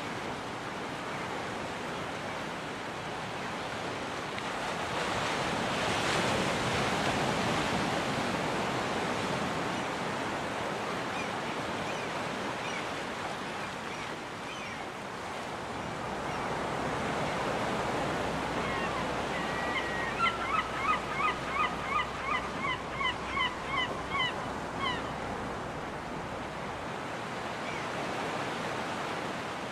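Surf breaking on a beach, swelling twice, with a gull calling in a quick run of about a dozen short cries, roughly two a second, a little after the middle.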